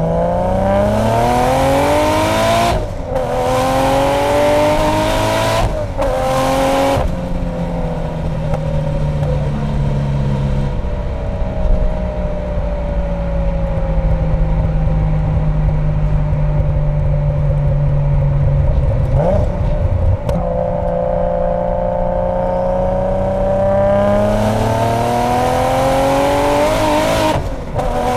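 Single-turbo Mk4 Toyota Supra inline-six with a Blitz Nur-Spec exhaust, heard on board: the engine pulls hard with rising pitch through two quick upshifts in the first seven seconds, then cruises at a steady lower pitch for a long stretch. It accelerates again and shifts just before the end.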